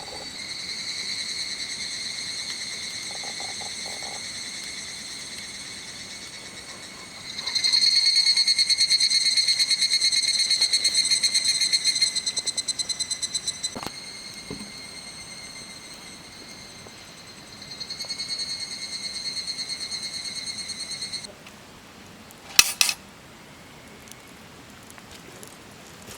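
An insect trilling steadily in a fast pulsing rhythm, growing louder and softer in waves before cutting off suddenly; a single sharp click follows soon after.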